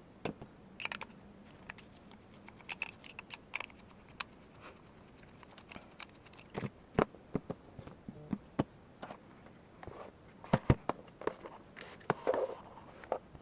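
Irregular clicks and light clacks of airsoft rifle parts being handled and fitted together, the sharpest knocks coming in the second half.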